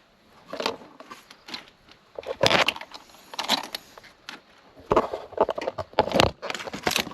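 Irregular clicks, scrapes and rustles of plastic hose and trim being handled as a windshield washer hose is worked into place in the car's engine bay.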